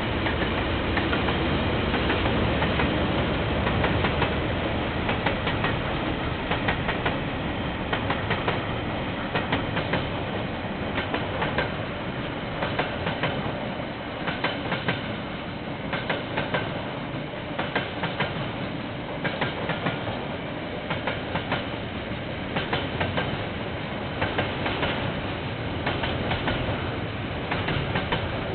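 KiwiRail freight train passing, heard through a security camera's microphone. The lower sound of its diesel locomotives is strongest in the first few seconds, then wagon after wagon goes by with the wheels clicking over the rail joints in repeated groups.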